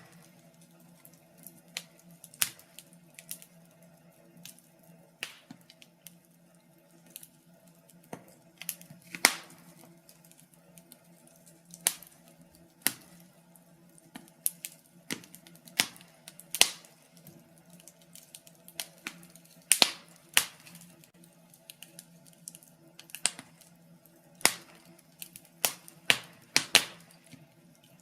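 Wood fire in a fireplace crackling: sharp, irregular pops and snaps, a few much louder than the rest, over a faint steady hum.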